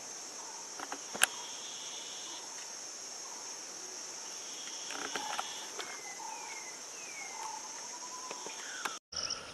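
Steady high-pitched drone of insects, with scattered short bird calls over it, some sliding downward. A single sharp click about a second in, and a brief dropout near the end.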